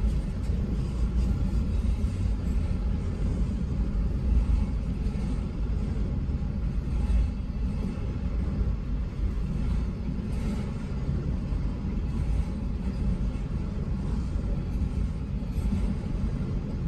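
Freight train rolling past with a steady low rumble and faint repeated clicks.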